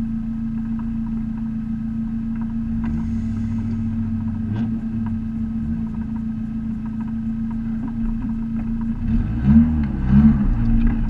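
Race-prepared Neon's four-cylinder engine idling steadily, heard from inside the cabin, with two short throttle blips about nine and ten seconds in.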